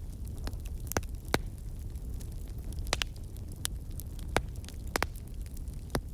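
Wood fire burning in a fireplace: a low steady rumble of flames with irregular sharp crackles and pops, several of them loud.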